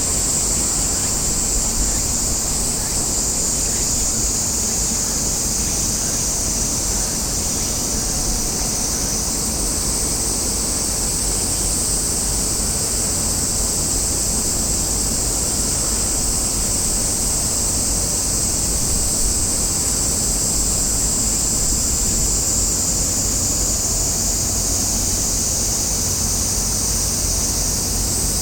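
Steady outdoor ambience: a low rumble of wind on the microphone under a continuous high-pitched shrill hiss, with no distinct events.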